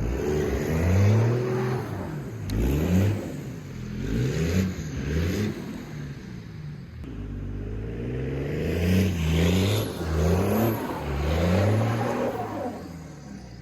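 5.9 Cummins inline-six turbo-diesel engine revving, its pitch climbing and falling back again and again.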